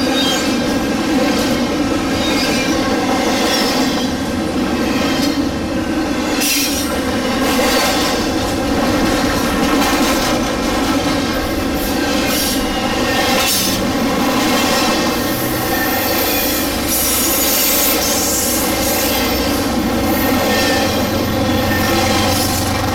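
Double-stack container well cars of a freight train rolling past, wheels clicking over the rail with a steady metallic wheel squeal. A low rumble grows in the last third.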